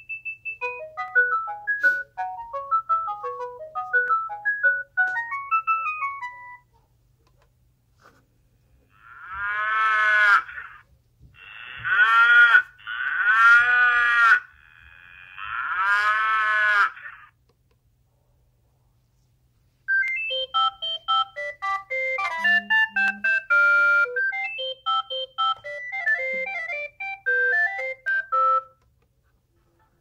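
Sagem myC-2 clamshell mobile phone playing ringtones one after another through its small speaker. First comes a quick melody of short notes that stops about six seconds in, then four long warbling tones that sweep up and down, and from about twenty seconds in another fast melody of short notes.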